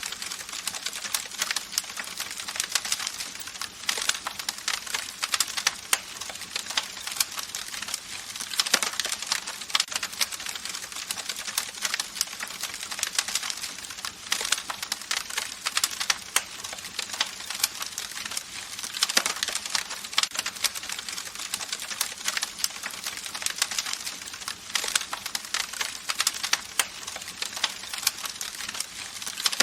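Campfire burning, with dense, irregular crackling and occasional sharper pops over a steady hiss of flames.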